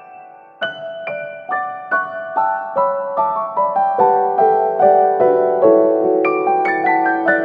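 Background piano music: a gentle melody of single struck notes, about two a second, after a short pause at the start.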